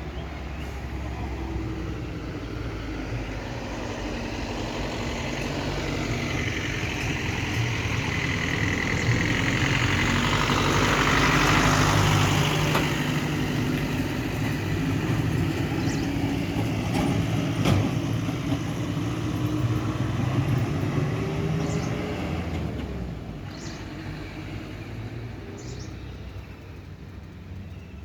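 A truck engine going by on the road: it grows louder for about twelve seconds, holds, then fades away near the end. There are a few short, sharp clicks in the second half.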